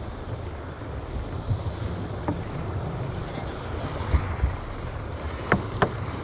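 Wind buffeting the microphone during a bike ride, a steady low rumble, with several short knocks, most of them in the second half.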